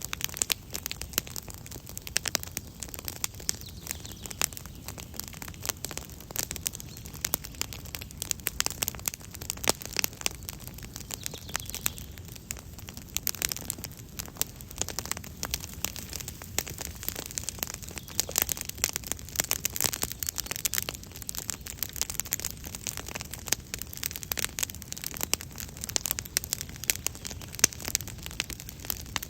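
Wood campfire crackling, with many sharp pops and snaps over a steady hiss.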